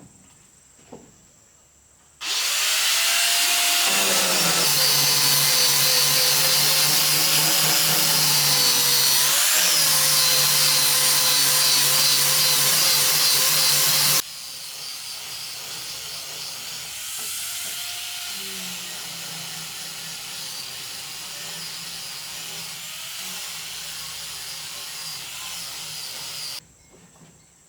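Electric power tool running on wood, starting suddenly and running at a steady speed with a brief dip near the middle, then continuing at a lower level from about halfway until it stops shortly before the end.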